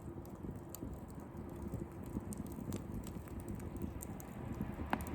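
Wood campfire crackling with irregular small snaps, and one sharper pop near the end.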